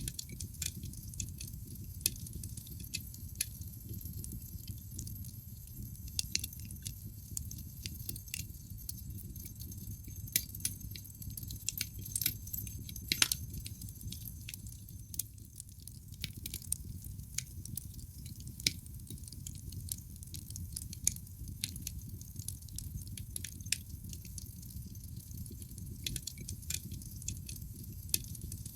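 Wood fire burning in a fireplace, crackling with irregular sharp snaps and pops over a steady low rumble; the loudest pop comes about halfway through.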